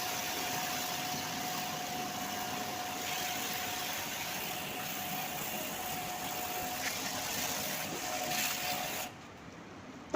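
A machine runs steadily, with a wide hiss and a steady mid-pitched whine, and shuts off abruptly about nine seconds in.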